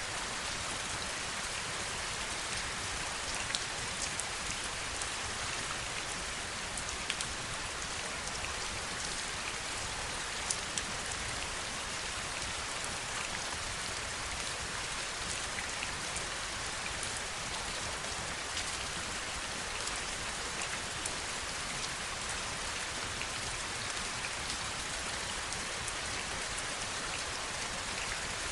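Steady heavy rain falling, with a constant hiss and scattered sharper drips and drop impacts standing out.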